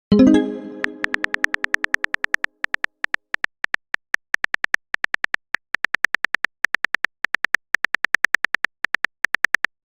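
Texting-app sound effects: a plucked message-notification chime that fades over about two seconds, then runs of quick electronic typing clicks, several a second, with short pauses between runs.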